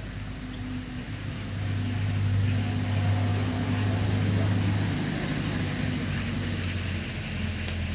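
A motor vehicle's engine running at a steady low pitch. It grows louder about a second and a half in and fades toward the end.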